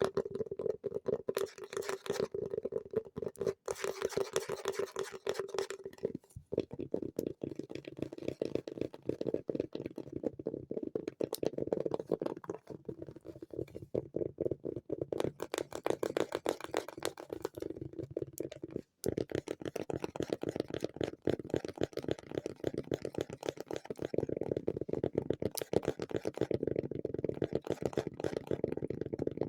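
Extremely fast tapping on objects, a dense unbroken run of taps. In the first few seconds the taps carry a low steady ring. The tapping breaks off briefly about a fifth of the way in and again about two-thirds of the way in, changing in sound after each break as if moved to a different object.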